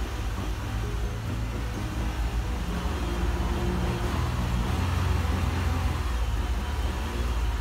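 2002 Toyota Alphard's 2.4-litre four-cylinder engine revved while standing still, heard from inside the cabin, with engine speed hovering around 2000 rpm and swelling a little about four to five seconds in.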